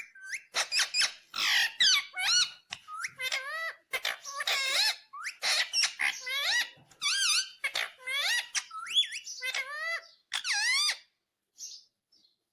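Indian ringneck parrot chattering: a quick run of high, squeaky calls, many with wavering or rising pitch, that breaks off about a second before the end.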